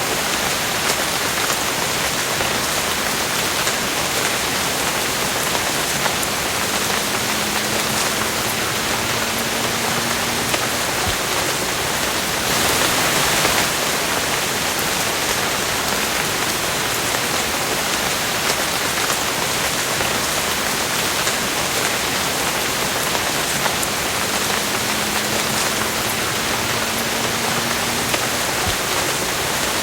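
Steady rain falling: an even hiss with scattered drops ticking, briefly heavier about thirteen seconds in.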